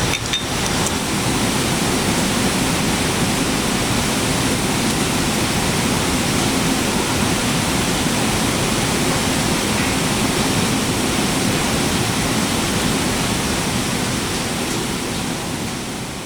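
Steady rushing noise of water, an even hiss with no pauses, fading out near the end.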